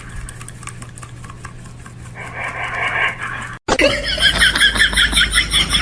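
A steady low hum with faint voice-like sound, then after an abrupt cut an animal's rapid series of high-pitched chirping calls, about five a second.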